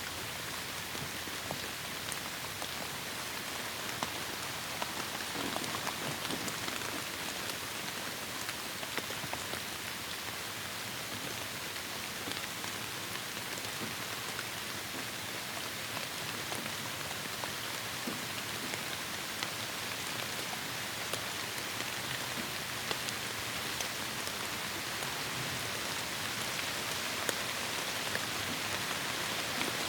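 Heavy rain falling steadily in a forest: a dense, even hiss with many small drop ticks scattered through it, growing slightly louder toward the end.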